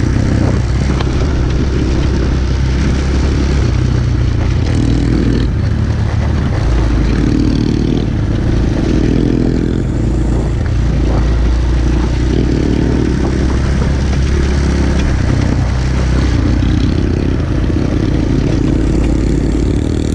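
Kayo TT 125 pit bike's 125 cc four-stroke single-cylinder engine running while riding, the revs rising and falling as the throttle is worked.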